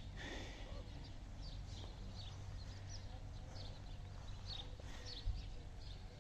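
Small birds chirping in the background: short, falling chirps repeated every half second or so, over a faint low rumble.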